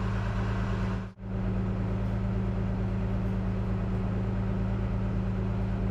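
A machine running with a steady low hum, interrupted by a brief dropout about a second in.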